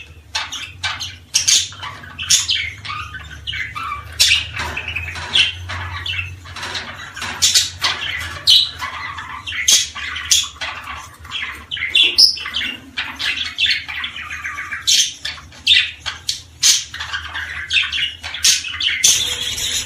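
Small songbirds chirping and calling in quick, overlapping bursts of short sharp notes, the kind of bird-song track played to stimulate small birds to sing.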